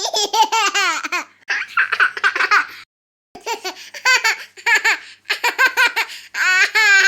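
A baby laughing in about six bouts of high-pitched giggles, with short breaths between them.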